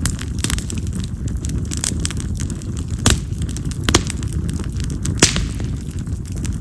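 Split yamazakura (Japanese mountain cherry) firewood burning in an open fire: a steady low rush of flame with small crackles and a handful of sharp pops, loudest about three, four and five seconds in. Mountain cherry is known for popping loudly, like firecrackers, as it burns.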